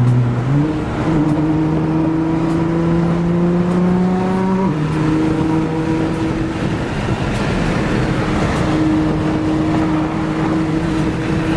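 A car engine under hard acceleration: its pitch steps up about half a second in and climbs steadily, then drops sharply about four and a half seconds in as it shifts up a gear, and runs on at a steadier note.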